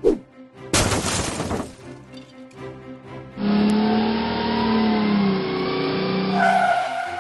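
Cartoon race-car sound effects over background music: a short whoosh about a second in, then from about halfway a loud, steady engine run that fades near the end.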